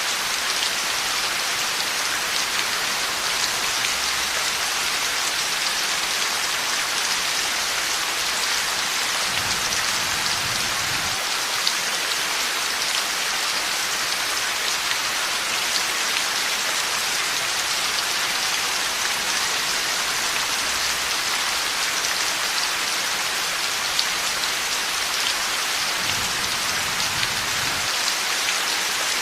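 Heavy rain falling steadily, a dense even hiss of drops, with a faint low thunder rumble twice, about a third of the way in and again near the end.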